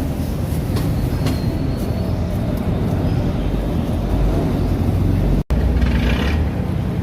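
Steady low rumble of city traffic and engines, with a brief dropout about five and a half seconds in.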